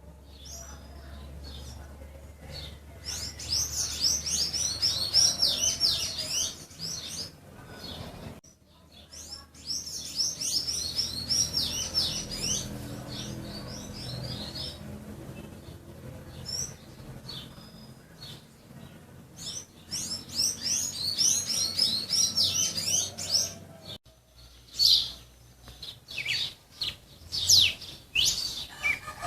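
Songbird singing in bouts of rapid, high chirping notes, each bout lasting a few seconds, with short pauses between them; the recording changes abruptly twice.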